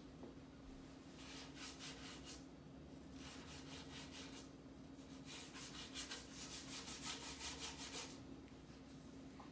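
Paintbrush stroking back and forth on a wooden birdhouse: three runs of quick brushing strokes, several a second, the longest and loudest run in the second half.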